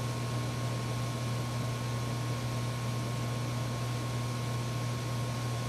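Steady low hum with a thin, constant high whine and even hiss: the background noise of an electronics repair bench.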